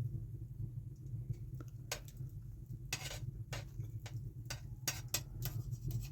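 Scattered light clinks and clicks of eating utensils against dishes, about eight from two seconds in to the end, over a steady low rumble.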